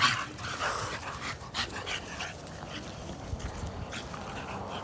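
Young bully-breed dogs play-fighting, giving a quick run of short dog cries over the first couple of seconds, loudest at the very start, then going quieter.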